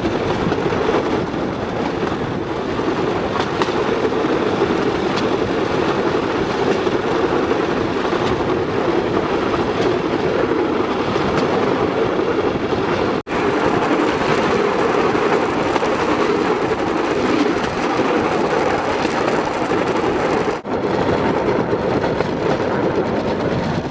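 Bamboo train (norry) running along the rails at speed: a steady, loud rattling clatter of the bamboo platform and wheels on the track, briefly dropping out twice.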